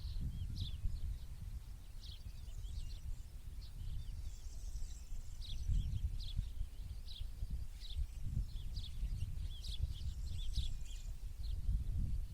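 Small birds chirping in many quick, short calls, several overlapping, over a low, unsteady rumble.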